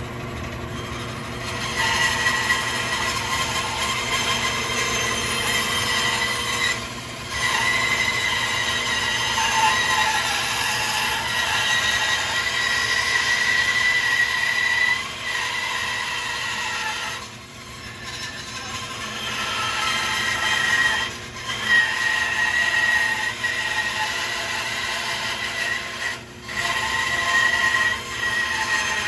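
Bandsaw running and cutting a curved outline in a wooden board: a steady motor hum under the hiss of the blade in the wood. The cutting sound drops briefly about a quarter, halfway and near the end, as the blade eases off the cut.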